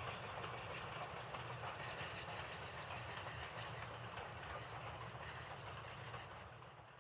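Goods train with a Southern Railway Q class 0-6-0 steam locomotive rolling past: wagon wheels rumbling and clattering over the rails in a steady noise, which starts fading near the end.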